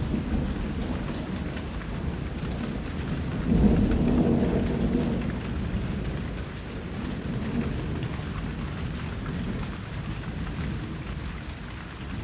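Steady rain falling, with a low rumble of thunder that swells about three and a half seconds in and then rolls away. The sound eases off toward the end.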